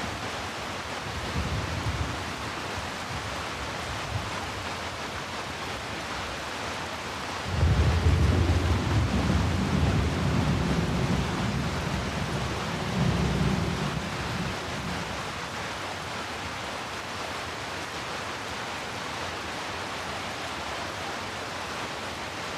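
Steady heavy rain, with a roll of thunder that breaks in suddenly about a third of the way through. The thunder rumbles low for about seven seconds, swells once more, then dies away under the rain.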